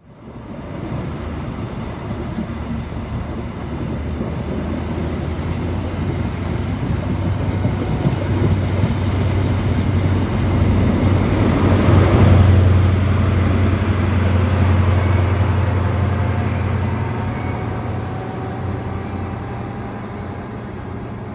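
A diesel train passing: a steady low engine drone under rail noise that grows louder, peaks about twelve seconds in, then fades as the train draws away.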